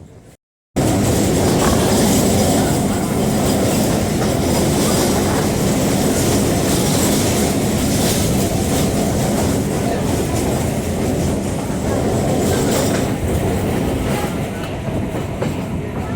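Chennai MRTS electric suburban train running, heard from on board: a loud, steady running noise of wheels on the rails. It cuts in abruptly just under a second in, after a moment of silence.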